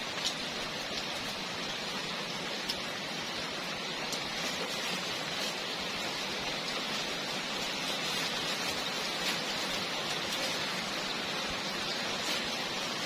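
Rain falling steadily: a continuous even hiss with scattered sharp ticks of drops striking nearby.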